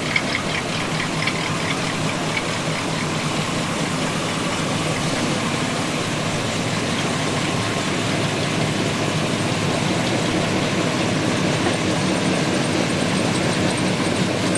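Engines of classic American cars, among them a 1960s Pontiac Grand Prix, running as the cars drive slowly past one after another. The sound is steady, with no sharp pass-by peaks.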